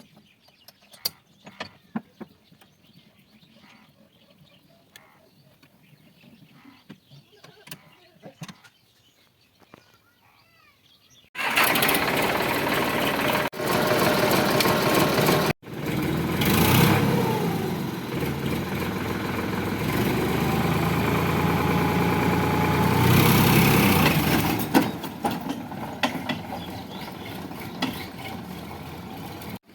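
A tractor's diesel engine starting suddenly about a third of the way in and running loud, with abrupt breaks; after a quiet, near-still stretch with faint clicks. It continues more quietly near the end.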